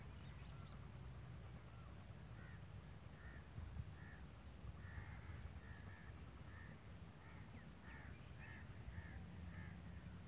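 Faint short bird calls, repeated about every half second from a couple of seconds in, over a steady low rumble.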